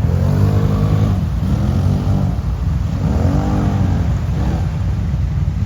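Quad bike (ATV) engine revving up and falling back about four times over a heavy low rumble.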